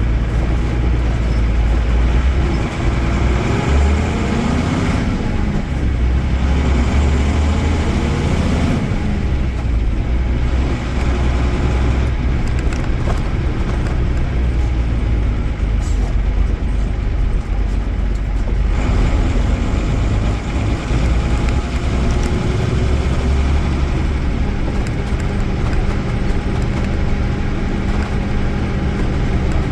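Mercedes-Benz OM-366A inline-six turbodiesel of an OF-1318 coach chassis running under way, a deep steady drone whose pitch rises and falls a few seconds in as the engine revs through the gears.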